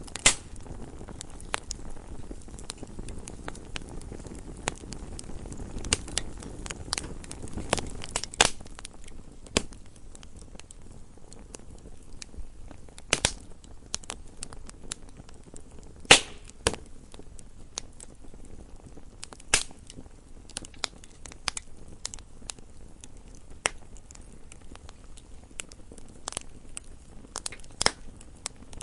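Wood fire burning in a fireplace, crackling with irregular sharp pops and snaps over a low steady hiss of the flames; a few pops stand out louder, the strongest about sixteen seconds in.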